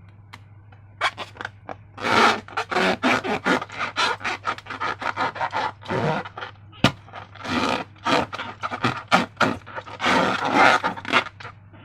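Slime being worked by hand: sticky, scraping crackles and squelches in quick irregular bursts, starting about a second in.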